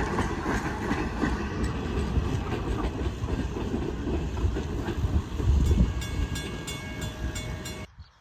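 Train rolling past, its railroad cars rumbling with wheels clicking over the rail joints; the sound cuts off suddenly near the end.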